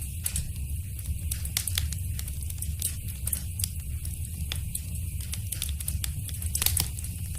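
Wood fire burning in a fireplace: a steady low rumble of the flames with irregular sharp crackles and pops, a cluster of louder pops near the end.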